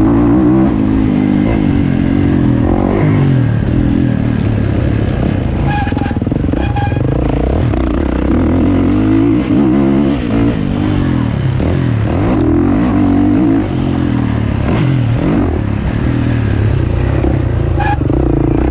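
450cc motocross motorcycle engine running hard, its pitch repeatedly rising and dropping back as the throttle is opened and closed through the gears.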